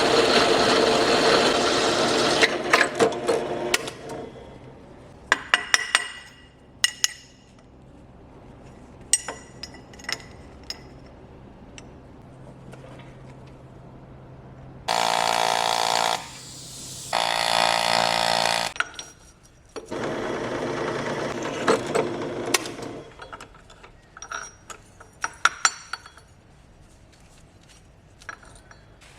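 Workshop tool sounds: several short runs of power tools, the one near the middle with a steady whine, between scattered clicks and clinks of metal parts being handled.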